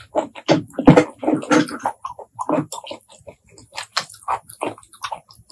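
Close-miked chewing of shellfish meat: wet smacking and clicking mouth noises, a dense run in the first two seconds, then sparser.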